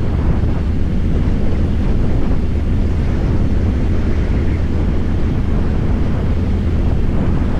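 Harley-Davidson Fat Boy's V-twin engine running at a steady pace while the bike is ridden, under heavy wind noise on the microphone. The sound stays even throughout, with no revving or gear changes.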